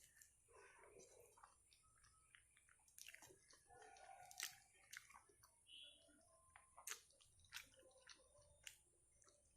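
Faint sounds of a person chewing and biting food: an irregular string of short, sharp clicks.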